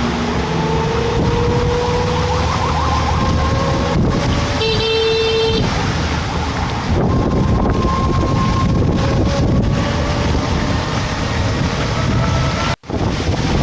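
A motor vehicle driving along a road in heavy rain, its engine running under a steady wash of rain and road noise. One horn toot, about a second long, comes about five seconds in. The sound drops out for an instant near the end.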